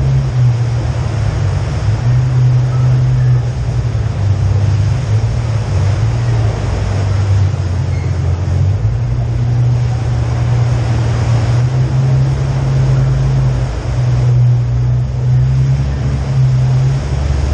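Jeep Wrangler JK's engine running steadily while crawling at low speed, a loud low drone whose pitch shifts slightly now and then, with road noise underneath.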